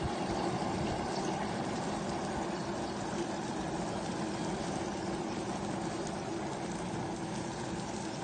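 Steady rushing water noise with a faint steady hum underneath, as from a boat out on the water.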